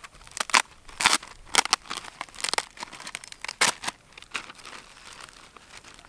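Paper sheets and packaging rustling and crinkling in hands, in irregular bursts that thin out after about four seconds.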